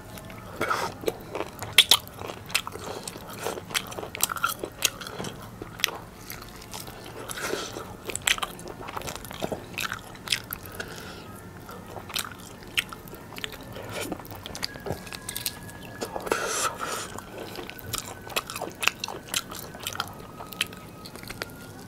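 Close-miked eating: biting and chewing soft, saucy chicken leg meat off the bone, with many irregular sharp mouth clicks.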